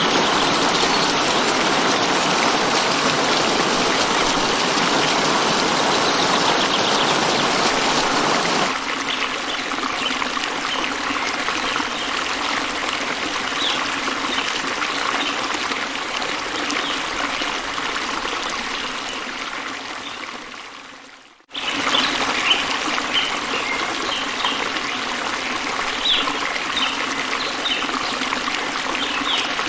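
Running water, a steady stream or trickle, with short high chirps, likely birds, over it in the second half. The sound changes abruptly to a quieter stretch about nine seconds in. It fades almost to silence about twenty-one seconds in, then cuts straight back in.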